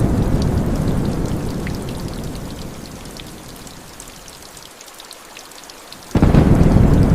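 Heavy rain pattering steadily while a low thunder rumble fades away over about four seconds. About six seconds in, a new loud rumble of thunder starts suddenly.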